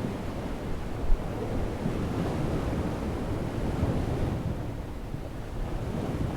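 Waves breaking on a shoreline with wind buffeting the microphone, a steady rumbling wash of noise. There is one brief thump about a second in.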